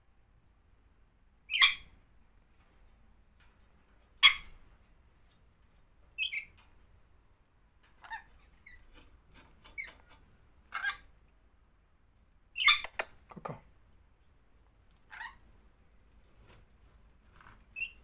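Pet lory parrot giving short, sharp squeaks and squawks, about nine in all, spaced one to two seconds apart. The loudest come about one and a half, four and thirteen seconds in.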